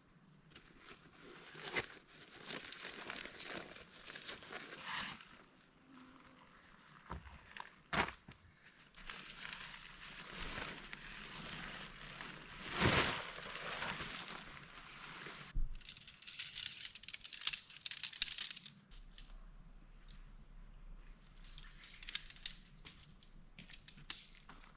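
Crinkling and rustling of camping gear being handled, in irregular spells, with a sharp click about eight seconds in.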